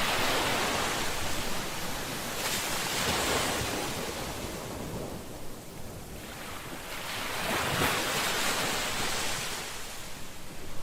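Ocean waves breaking and washing in on a shore, the surf swelling and ebbing in slow surges every few seconds, with wind on the microphone.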